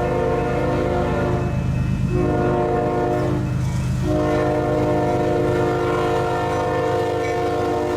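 Union Pacific locomotive air horn sounding in separate blasts, one breaking off about a second and a half in, a second short one, then a long one from about four seconds in, over the low rumble of the locomotive and train.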